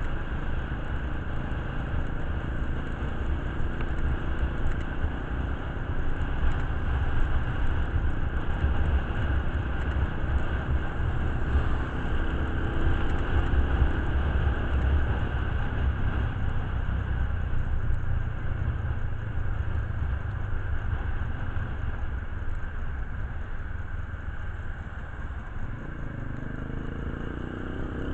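A vehicle engine running under a steady low rumble, rising in pitch near the end as it speeds up.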